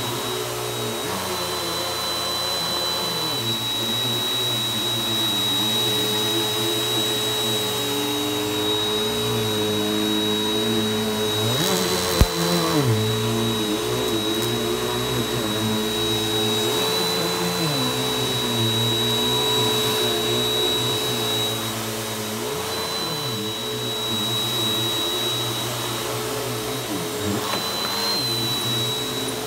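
Vacuum cleaner running steadily over a rug, with a high whine; its lower tone dips and recovers every few seconds as it is worked back and forth. A single sharp click about twelve seconds in.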